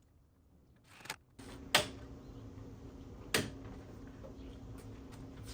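A few sharp knocks and clicks, the loudest about two seconds in and another near the middle, over a steady low hum: hardware and tools being handled while fitting a pocket door track.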